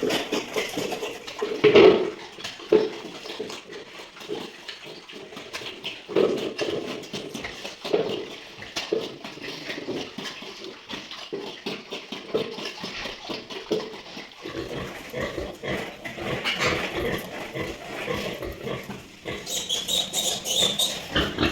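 Pigs grunting in many short, irregular calls, with a higher, brighter stretch of calling near the end.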